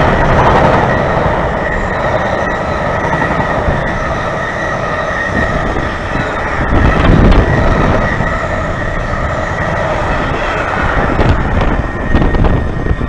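Container freight train's wagons rolling past at close range: a steady rumble of steel wheels on the rails with a thin high-pitched ring over it, and heavier knocks of wheels over rail joints about seven seconds in and again near the end.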